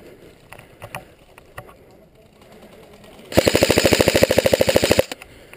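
Airsoft electric gun firing one full-auto burst of about a second and a half past the middle, a rapid, even rattle of shots. Before it, only a few faint clicks.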